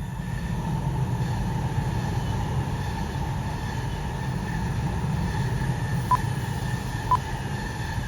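Tohoku Shinkansen Yamabiko bullet train running along the line. Its noise swells over the first second and then holds as a steady low sound with a faint high tone.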